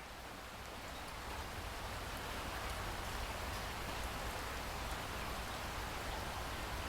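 Steady rain falling, with scattered drops ticking through an even hiss and a low rumble beneath. It grows a little louder over the first couple of seconds, then holds steady.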